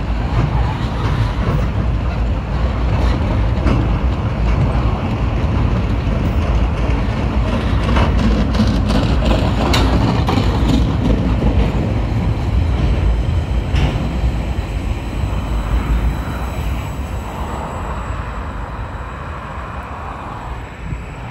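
Empty log wagons of a freight train rolling past: a steady rumble with scattered sharp clicks and clacks from the wheels. The sound fades over the last few seconds as the end of the train goes by.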